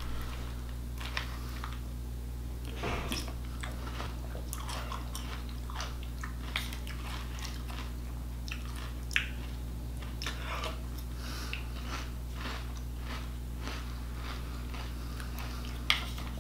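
Chewing and crunching Frosted Flakes cereal in irregular crackles, with a spoon scraping and clicking against a plastic bowl. Two sharper clicks come about halfway through and near the end, over a steady low hum.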